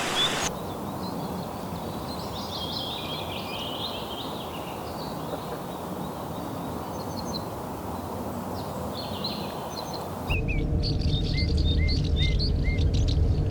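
Rainforest birds chirping and calling over a steady background hiss. About ten seconds in, the background changes abruptly to a louder low rumble, and a short call repeats four times amid other chirps and fast ticking.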